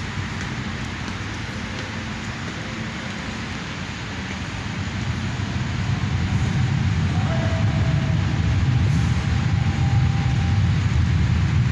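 Hino 500 truck's six-cylinder diesel engine running, a steady low rumble that grows louder about five seconds in.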